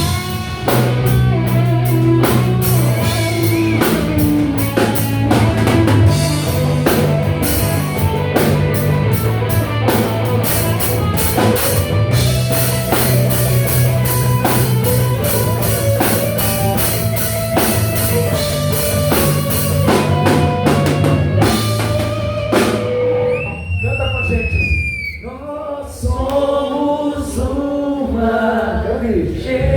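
A band playing live with drum kit, bass and guitar. About three quarters of the way through, the drums drop out and a single high note bends and slides, and then voices sing over the band.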